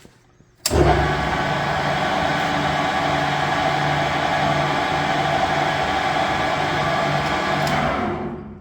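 Standard Modern 1640 tool room lathe's geared headstock and 10 hp drive motor starting with a click a little under a second in, then running at speed with a steady gear whine and a faintly pulsing hum. Near the end it is shut off and winds down within about half a second.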